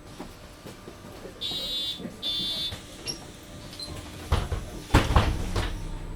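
City bus door warning beeping twice, then the doors closing with several loud thumps and knocks, inside the cabin of a MAN Lion's City hybrid bus.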